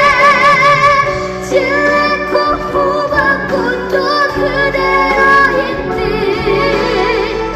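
A young girl singing a trot song over instrumental accompaniment, holding long notes with a wide vibrato.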